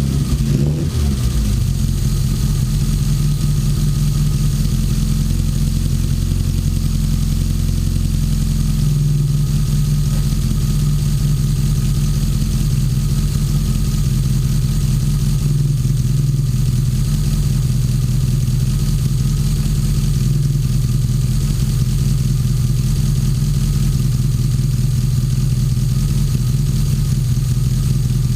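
Classic Mini's A-series four-cylinder engine running, its revs dropping back in the first second and then holding a steady idle. It is being run up to temperature after the rebuild, to check for leaks and funny noises.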